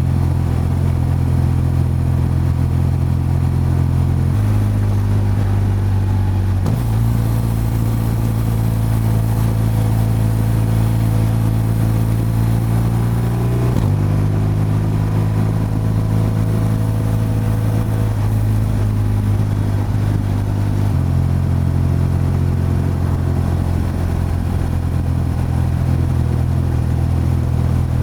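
BMW R12's boxer-twin engine and exhaust running steadily while riding along. The engine note holds level and then steps to a new pitch several times, about 4, 7, 14 and 21 seconds in, as the revs change.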